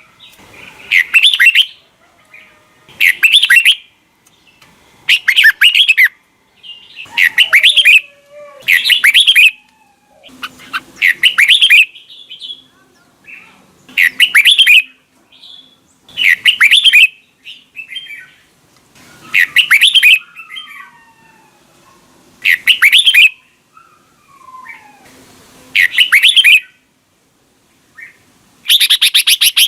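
Red-whiskered bulbul song: loud, short phrases repeated about every two seconds, with fainter chirps and gliding calls between them.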